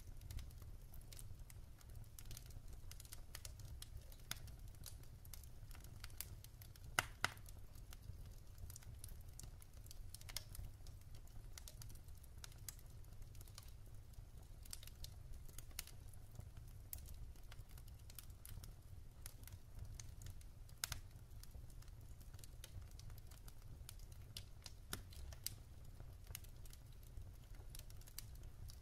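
Wood fire in a fireplace crackling softly with irregular small pops, two louder snaps about seven seconds in, over a low steady rumble.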